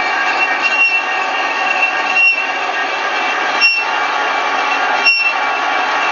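Metal lathe turning the chipped rim edge of an alloy car wheel: steady machining noise with a high steady whine, and a short sharp tick repeating about every second and a half.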